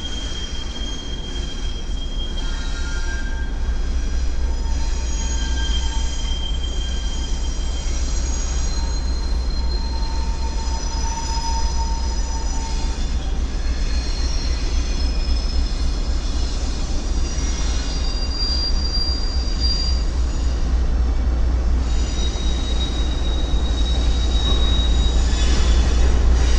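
Train rolling past with its wheels squealing: several high-pitched squeals that come and go, over a steady low rumble that grows louder toward the end.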